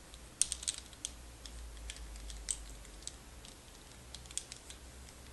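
Light, irregular clicking of small hard objects handled close to the microphone: a quick cluster of clicks about half a second in, then scattered single clicks.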